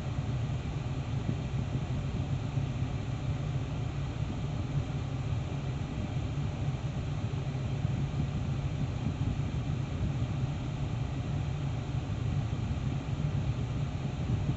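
Steady, unbroken white-noise hiss from the car's speakers, heaviest in the low end, put out by a faulty Eonon head unit that is crashing and rebooting.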